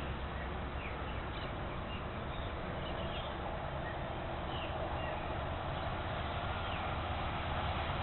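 Faint short, falling bird chirps, several in the first half, over a steady background of rushing noise and low hum.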